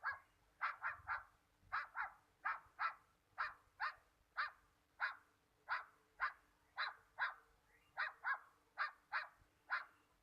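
An animal giving short, sharp, bark-like calls over and over, about two to three a second and often in quick pairs.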